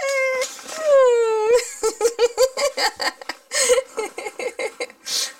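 Dog whining and 'talking' in answer: a short held whine, a long falling moan about a second in, then a quick string of short yelping whines.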